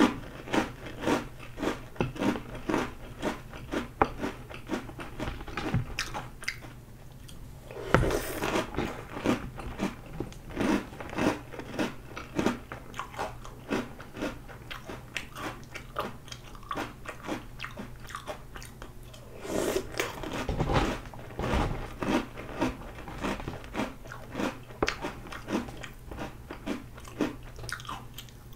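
Close-up crunching and chewing of Oreo O's chocolate cereal rings in milk, several crisp crunches a second. A brief lull, then louder spells about eight seconds in and again about twenty seconds in.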